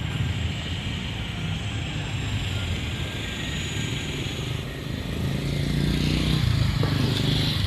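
Steady rumble and noise of passing traffic, growing louder about five seconds in.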